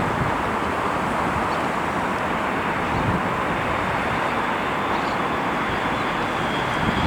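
Aircraft engines running at a steady level, an even noise with a faint high whine coming in during the second half.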